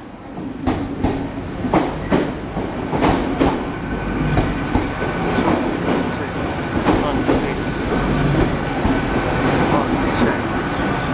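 Great Western Railway Class 800 train pulling into the platform: its wheels click unevenly over the rail joints over a continuous low running rumble, with a faint steady whine.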